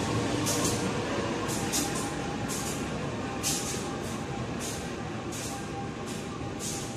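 Train of passenger coaches hauled by a CC 203 diesel-electric locomotive rolling past at speed: a steady rumble with short, sharp bursts roughly every half second to a second, fading slowly as the train moves away.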